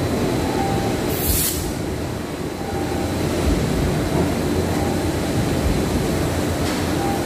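Steady, loud mechanical rumble with a short hiss about a second in.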